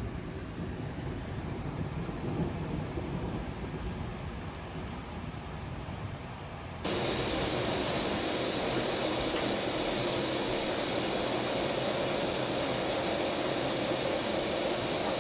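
Heavy rain with a low rumble of thunder. About seven seconds in it cuts abruptly to a louder, steady hiss of downpour.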